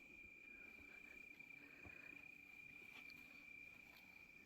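Faint, steady high-pitched trill of crickets; otherwise near silence.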